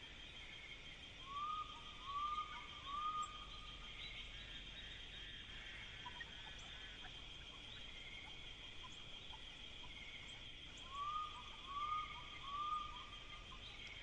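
A bird calling a run of three short clear notes, each rising then dipping, heard twice: once a second or so in and again near the end. Underneath is a steady high chirring from insects such as crickets.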